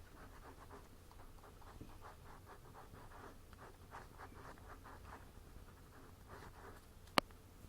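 Ballpoint pen scratching on paper in quick short strokes, going over a drawn outline. A single sharp click sounds about seven seconds in.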